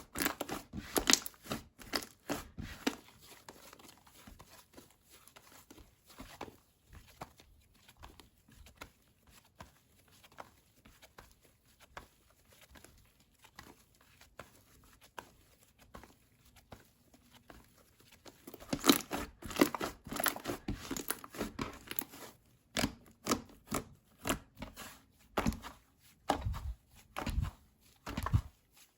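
Slime being squeezed, stretched and poked by hand: sticky crackles, pops and tearing sounds, faint through the middle and louder again from about 19 seconds in.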